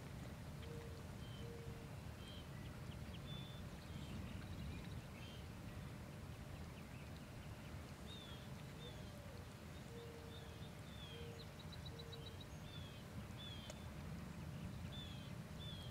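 Birds calling: scattered short downward-sliding chirps, a couple of quick trills, and a few short low flat notes in twos and threes, over a steady low outdoor rumble.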